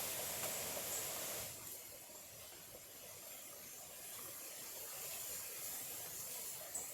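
Small clear stream running, a steady hiss of flowing water that drops in level about a second and a half in.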